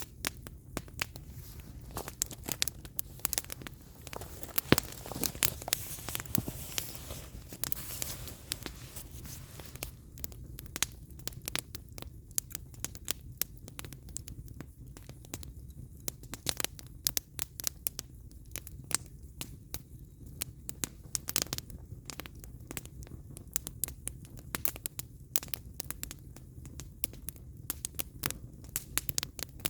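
Firewood burning in an open fire, crackling with many irregular sharp pops and snaps over a steady low rumble. The crackling thickens into a stretch of hissing about five to eight seconds in.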